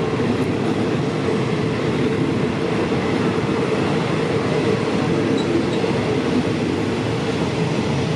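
Train hauled by a QSY-class diesel-electric locomotive running steadily: a continuous, even rumble with no distinct clicks or changes.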